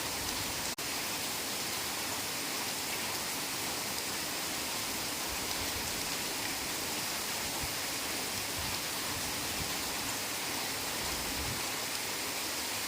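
Heavy rain falling steadily, an even hiss with no let-up, broken only by a momentary dropout about a second in.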